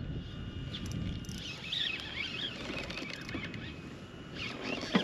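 A bird singing a short warbling phrase over steady wind and water noise, with a sharp knock near the end.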